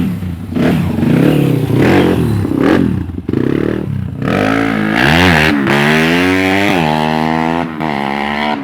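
Honda GL trail bike's bored-up single-cylinder four-stroke engine revved through an SND Racing aftermarket exhaust: several short throttle blips, then a longer rev held for a couple of seconds that drops back near the end.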